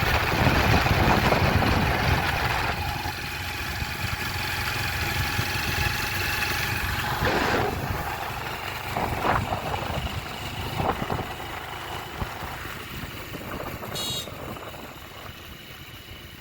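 A vehicle engine running steadily, getting gradually quieter and fading out near the end.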